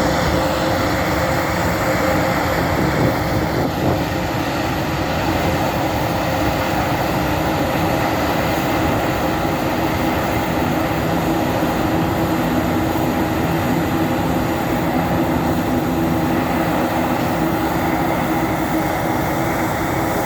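Airbus A400M's four turboprop engines running steadily: a constant loud drone with several steady propeller tones.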